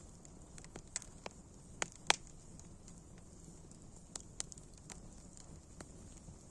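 Wood fire crackling: irregular sharp pops and snaps, the loudest about two seconds in, over a faint steady hiss of burning.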